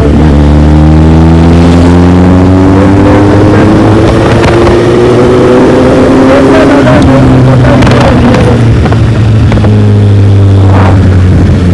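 Kawasaki Z800's inline-four engine under way, its note climbing steadily for about seven seconds as the bike accelerates, dropping at an upshift, then holding steady.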